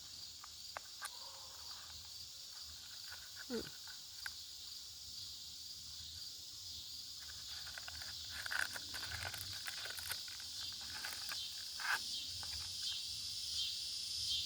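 Crickets chirring steadily in the background, with a few small clicks and soft rustles of handling.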